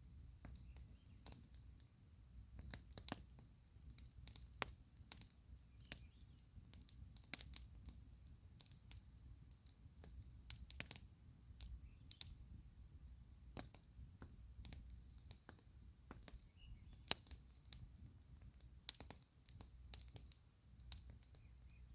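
Campfire crackling: irregular sharp pops and snaps of burning wood, a couple a second, over a low steady rumble.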